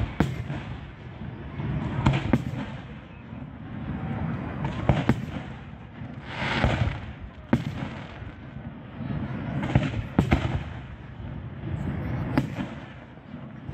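Aerial fireworks shells bursting: sharp bangs every couple of seconds, some in quick pairs, over a low continuous rumble.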